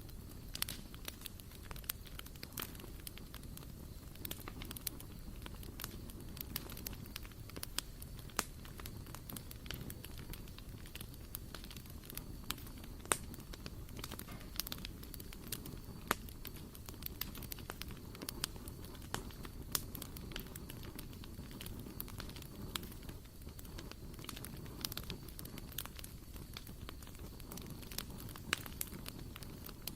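Wood fire burning in a barbecue grill, crackling with frequent irregular sharp pops over a soft steady rush.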